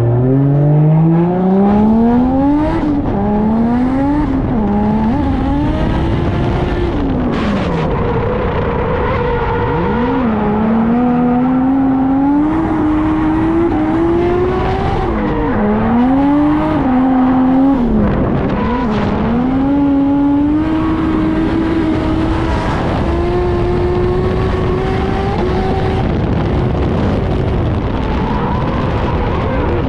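Turbocharged drift car engine revving hard and unevenly. The revs climb and drop again and again as the driver shifts, lifts and gets back on the throttle through the corners.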